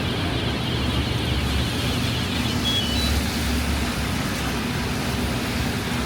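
Rainy city street traffic: engines rumbling under a steady hiss of rain and wet road. A few short high beeps sound just under three seconds in.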